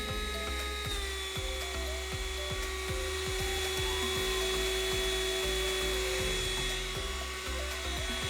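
Small cordless handheld vacuum cleaner (ST-6610) running with a steady high motor whine, which drops slightly in pitch about a second in and holds there. Background music with a steady beat plays under it.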